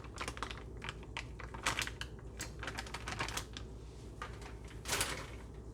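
Hands handling food and packaging: rapid, irregular light clicks and crackles, with a short rustle about five seconds in.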